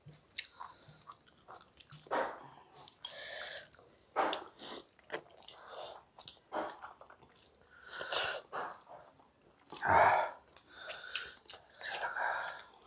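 Close mouth sounds of someone eating rice and cabbage curry by hand: irregular wet chewing and smacking, along with fingers working the rice on a steel plate. A louder burst comes about ten seconds in.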